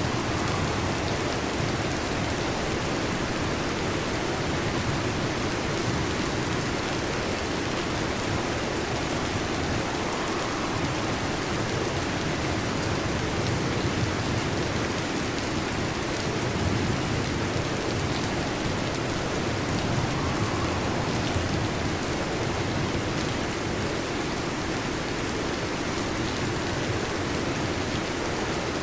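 Heavy rain drumming steadily on a metal roof, a dense even patter with no break.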